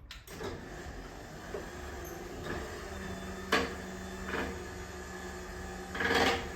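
Garage door opener running with a steady hum after being triggered, with a sharp clunk about three and a half seconds in, a lighter knock after it, and a rattling clatter near the end. The door it drives lifts and then slams back down on its own.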